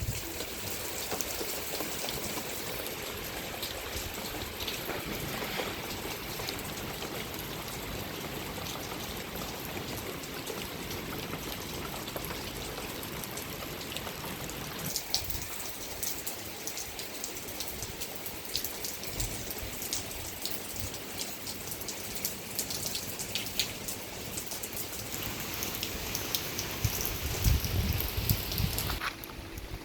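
Rain falling steadily: an even patter of many drops striking a surface, with sharper individual drop hits scattered through. Near the end a loud low rumble joins in for a couple of seconds.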